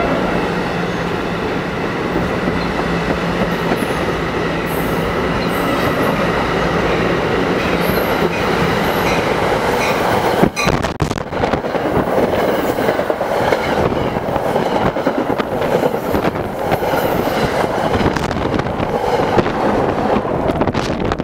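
Two NJ Transit commuter trains passing close by at speed. First comes the steady rumble and rail noise of a train of multilevel coaches. About halfway through a second train takes over on the near track, with sharp clicks and clatter from its wheels on the rails.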